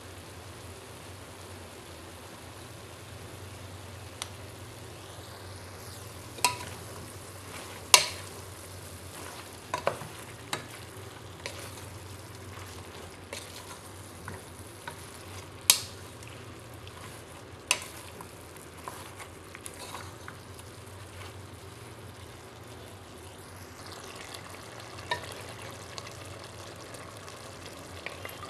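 Beef pieces in oyster sauce sizzling steadily in a stainless steel pot while being stirred with a wooden spatula, which knocks sharply against the pot several times.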